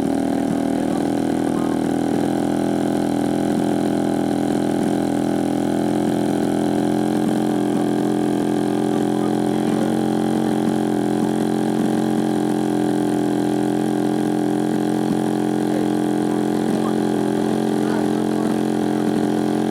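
Desert Aircraft DA-85 gasoline two-stroke engine in a large RC model Stearman PT-17 idling at a steady speed, running through a radio range check.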